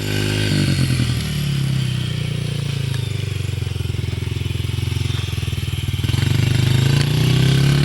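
Small dirt bike engine running close by as a child rides it, its pitch rising about half a second in, easing off through the middle and climbing again near the end.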